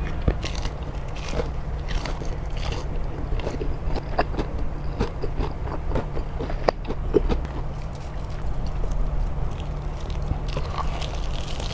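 Chewing a mouthful of soft, saucy fried instant noodles (mie goreng nyemek), with frequent small wet mouth clicks and smacks.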